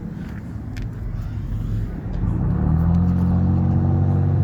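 A road vehicle's engine running close by, getting louder a little over two seconds in and then holding a steady low hum.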